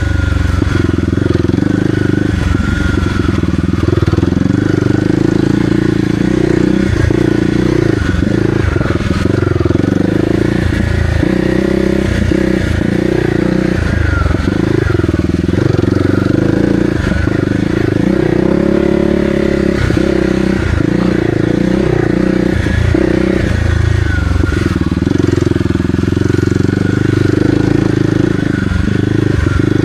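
Kawasaki KLX300R's single-cylinder four-stroke engine running while ridden on a trail, the throttle rolling off and back on every second or so.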